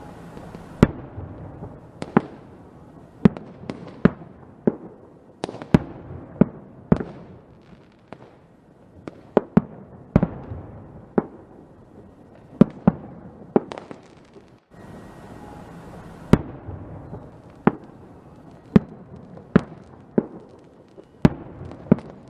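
Fireworks exploding: sharp bangs at irregular intervals, about one a second, over a continual low rumble of further bursts, with a momentary break about two-thirds of the way through.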